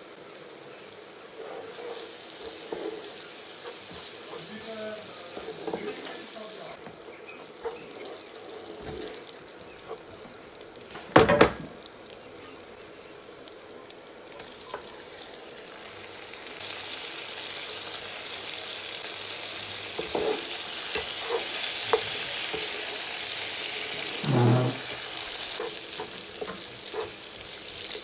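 Fried onions and spices sizzling in hot oil in a non-stick pan while being stirred, with a sharp knock about eleven seconds in. After the drained mutton pieces go in, the sizzling is louder and steady as the meat is stirred and fried with a wooden spoon, with a thump a few seconds before the end.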